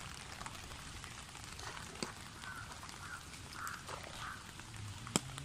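Floodwater gurgling and lapping around a small boat moving through it, with a few sharp knocks.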